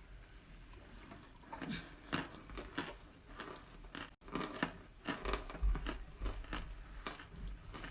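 Close-up crunching and chewing of hard cornstarch chunks: a string of short, crisp bites, broken by a brief dropout about four seconds in.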